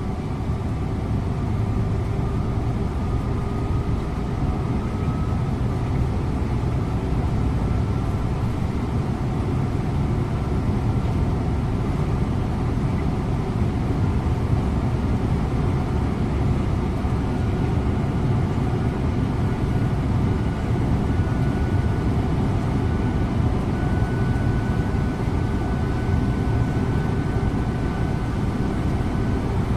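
Scania InterLink bus driving along the road, heard from inside the cabin: a steady low rumble of engine and tyre noise, with a faint whine that slowly rises in pitch.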